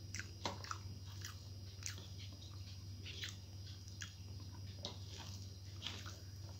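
Close-up chewing and mouth sounds of someone eating rice and vegetables by hand, with wet smacking clicks at irregular intervals. A steady low hum runs underneath.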